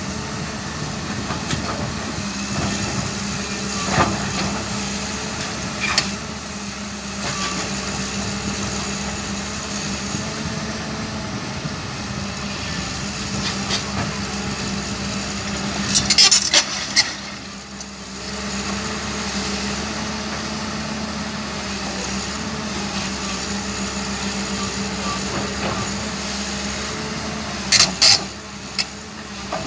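Hyundai Robex 220LC-9S excavator's diesel engine running steadily under work, with occasional sharp knocks. Two loud bursts of clatter, one about halfway through and one near the end, are the loudest sounds.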